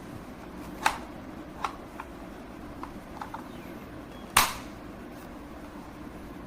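A few sharp clicks and knocks at irregular intervals, the loudest about four and a half seconds in, over a steady low hum.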